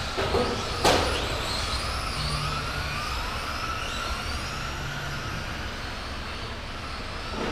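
Several radio-controlled racing trucks running on the track, their small motors whining and sliding up and down in pitch as they speed up and slow down. There is a sharp knock about a second in.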